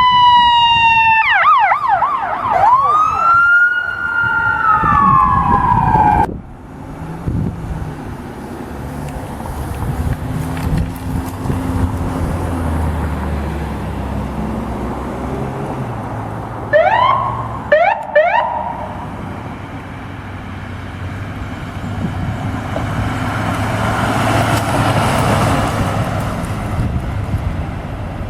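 Electronic emergency-vehicle siren on a responding fire apparatus. It falls in pitch, warbles quickly, then rises and holds before falling again, and cuts off suddenly about six seconds in. Low engine and road noise follows, with three short rising siren whoops a little past halfway and the vehicle noise swelling near the end.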